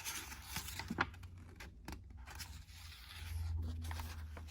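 Paper rustling and scraping with a few sharp clicks, as of a picture book's page being handled, over a low steady hum that grows louder partway through.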